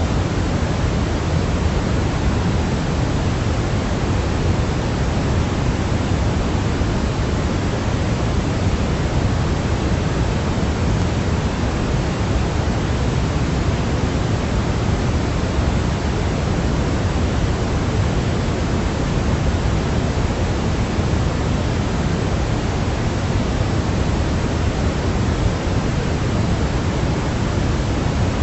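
Steady white-noise sleep track: a constant, unchanging hiss with most of its weight in the low end, like pink noise.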